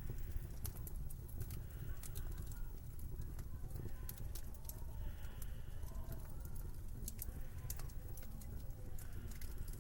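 Wood fire crackling in a fireplace: irregular sharp pops and snaps over a low steady rumble, with a faint wavering whistle rising and falling through the middle.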